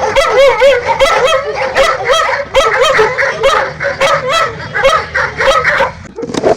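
A chorus of many young animals crying at once: high, wavering calls overlapping without a break, thinning out near the end.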